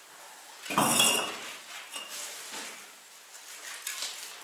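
Bricks being set down on a stack: a loud clinking clatter about a second in, then a few lighter clinks.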